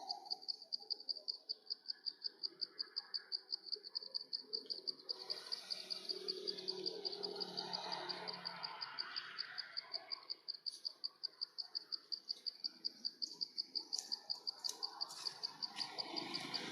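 An insect chirping steadily: one high note repeated in an even, fast pulse of about five chirps a second. A few faint clicks come near the end.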